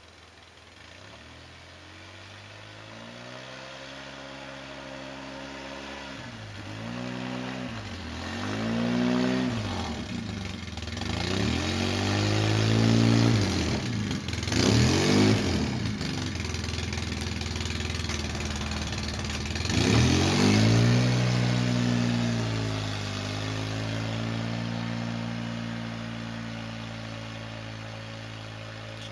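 Polaris Sportsman 800 ATV's twin-cylinder engine revving up and down repeatedly while pushing snow with its plow blade. It grows louder as the quad comes close about halfway through, then fades as it moves away.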